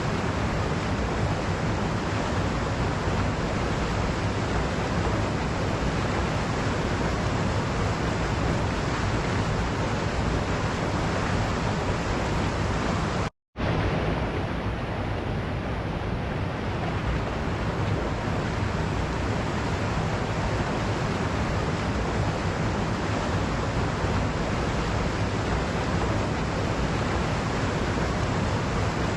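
Waterfall rushing steadily. The sound cuts out for a split second about halfway through, then resumes.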